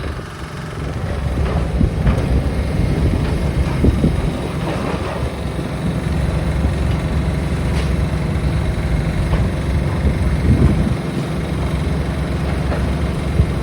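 Heavy engine running steadily with a continuous low rumble.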